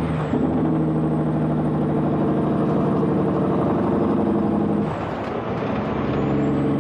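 Kenworth C500 truck's Cummins diesel engine running as the truck drives. The engine note drops away briefly about five seconds in, then picks up again.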